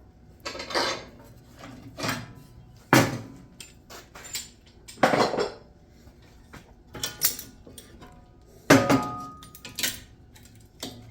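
Steel pieces and clamps clanking and knocking as they are moved and set on a metal welding table: about eight separate hits, a few ringing briefly.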